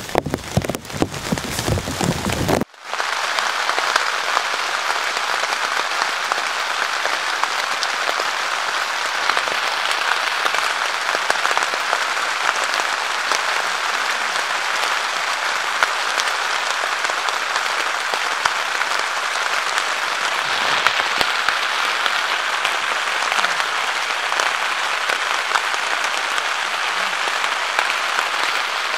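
Rain falling in a downpour. About two and a half seconds in, it cuts off abruptly to a dense, even patter that holds steady.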